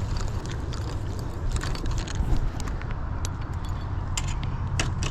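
Fishing reel being cranked while a flathead catfish is played on the line: irregular clicks and ticks over a steady low rumble.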